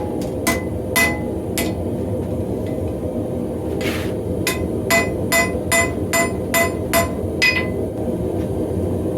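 Hand hammer striking hot mild steel on an anvil, each blow with a short metallic ring, as the bar is drawn out longer and thinner. Three blows, a pause, then a run of about eight blows at roughly two and a half a second, stopping about three-quarters of the way through, over a steady low rush.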